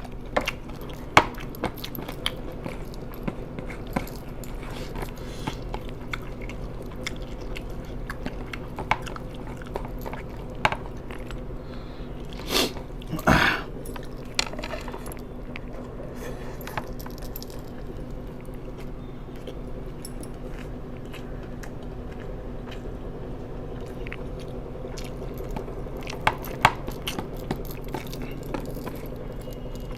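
A person biting and chewing food close to the microphone, with scattered small clicks and crunches and two louder, second-long crunching bursts about halfway through.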